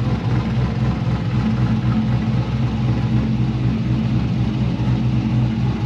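C5 Corvette's V8 engine idling steadily.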